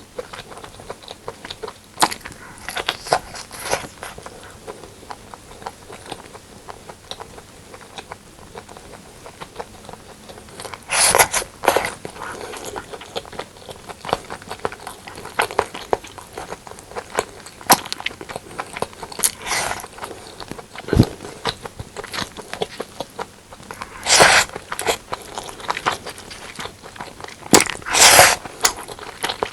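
Close-miked eating sounds of braised pork and white rice: irregular chewing, wet mouth clicks and smacks, with a few louder bursts of biting or utensil noise.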